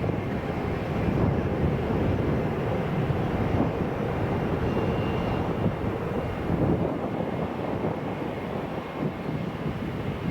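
Jet engine noise from an arriving Boeing 777-300ER's twin GE90 turbofans: a steady, even sound with a faint high whine.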